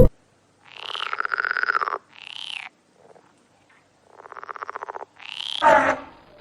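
An animal calling in two pairs of pulsed, rasping calls, each pair a long call followed by a short one, with silence between the pairs.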